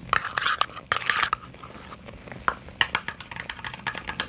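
Quick, irregular tapping on small boxes, a dense run of crisp clicks with a crunchier stretch in the first second or so.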